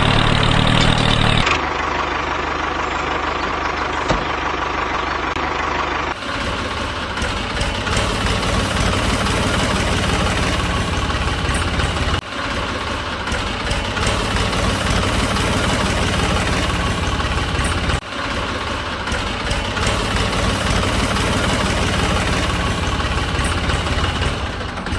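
An engine idling steadily with a rapid low rattle. The sound dips briefly at several points, then carries on.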